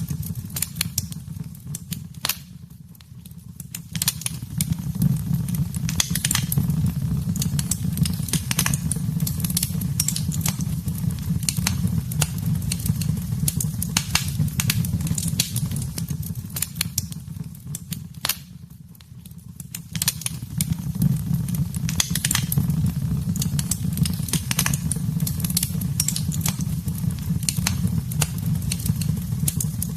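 Wood fire in a fireplace crackling, with many sharp pops over a steady low rumble of the flames. The sound dips briefly twice, about three seconds in and again near the middle.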